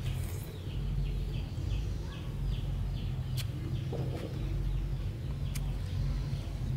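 Outdoor ambience with a steady low hum and a bird chirping rapidly and repeatedly, short high chirps about three a second, with a few sharp clicks.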